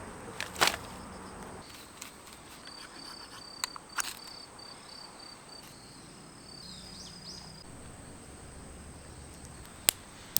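Rural outdoor ambience with insects: a steady high whine and a pulsing high trill through the middle, a few short chirps about seven seconds in, and several sharp clicks, the loudest just after the start.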